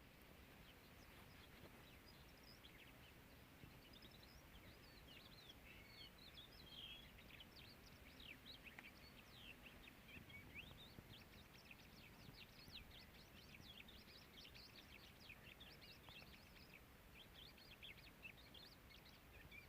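Many small birds chirping in a faint, continuous chorus of quick, high twitters, busier in the second half.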